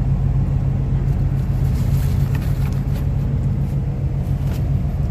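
Steady low hum of a car running, unchanging throughout, with a few faint light ticks.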